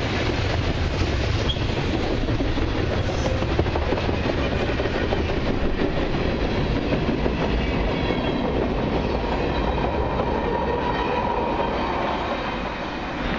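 Freight cars of a long autorack and mixed freight train rolling past at track side: a steady rumble with wheels clicking over the rails, easing off near the end.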